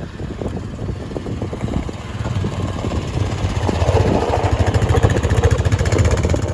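Chevy Silverado 1500 pickup's engine running, getting louder about two seconds in.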